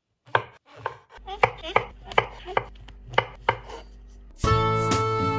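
Kitchen knife slicing mushrooms on a cutting board: about ten crisp strokes, irregular, two or three a second. Background music comes in abruptly about a second before the end.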